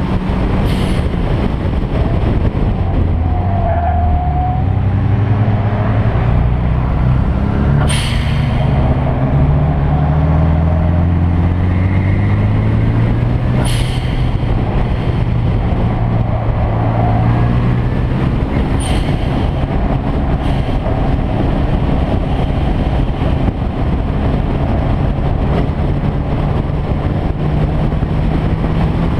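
Car engine and exhaust running under load, the engine note falling and rising as the revs change, with several sharp cracks spread through.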